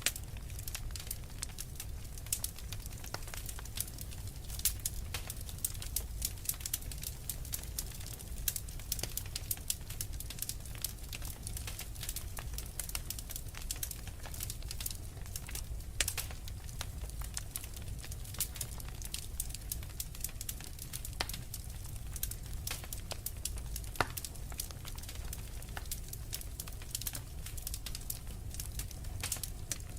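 Wood fire crackling, with frequent sharp pops and snaps at irregular intervals over a steady low rumble of blizzard wind.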